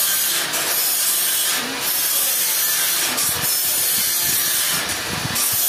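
Sawmill blade cutting through a Trembesi (rain tree) log: a steady, loud sawing noise that dips briefly a few times.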